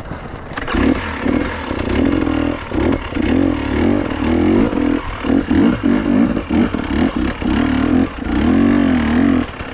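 KTM two-stroke enduro motorcycle engine revving hard off-road, the throttle snapped open and shut over and over so the pitch rises and falls with short drops between bursts.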